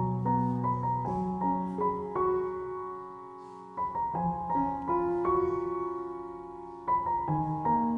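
Background piano music: a slow melody of held notes, with a brief dip about four seconds in.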